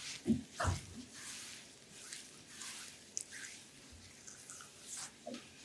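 Hands rubbing and pressing oiled skin during an aroma-oil abdominal massage: soft wet squelching and slippery rubbing, with a few short squishy sounds in the first second.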